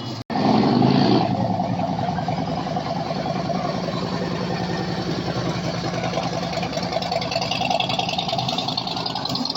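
A car engine idles steadily. It is louder for about the first second, right after a brief dropout.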